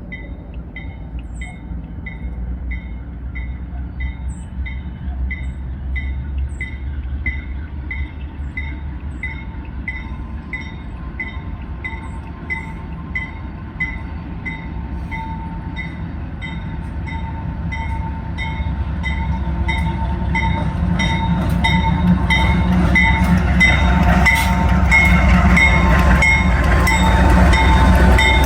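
Diesel locomotives of a Pan Am freight train approaching, their low rumble growing louder about two-thirds of the way in. A high ding repeats evenly, about twice a second, throughout.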